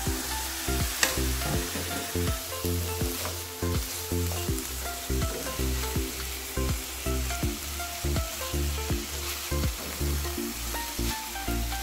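Chicken feet sizzling in hot oil and chili spice paste in a nonstick frying pan as they are stirred and turned with a plastic slotted spatula, with a sharp clack about a second in. Background music with held notes plays underneath.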